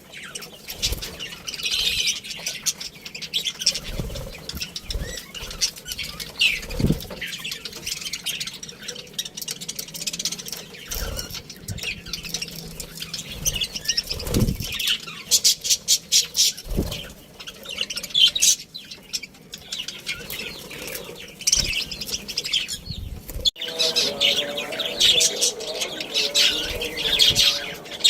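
A flock of budgerigars chirping and chattering in rapid, overlapping high calls, with occasional wing flutters and soft thumps.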